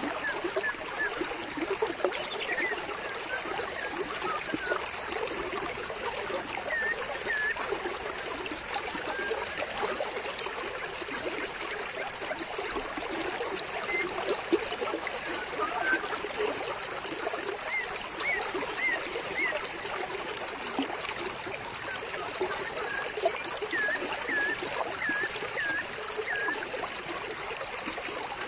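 Flowing water trickling steadily, with a bird's short chirps coming now and then in quick runs of three or four.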